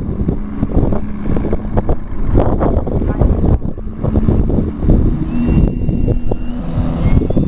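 Strong gusty wind buffeting the microphone, a loud uneven rumble, with a faint steady hum underneath.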